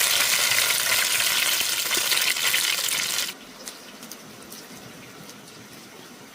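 Food sizzling loudly in hot oil, cutting off abruptly about three seconds in. A much quieter hiss with a few faint clicks follows.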